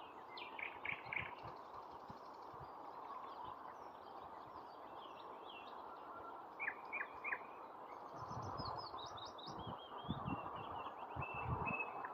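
A nightingale singing in short, varied phrases of clear whistled notes, clipped chirps and quick trills, with pauses between phrases, over a steady background hiss. Low rumbles come and go in the second half.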